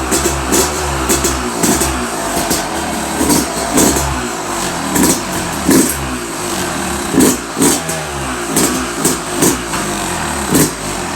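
2021 Yamaha YZ250's 250 cc two-stroke engine running on its first cold start and being revved in repeated short throttle blips, about one a second.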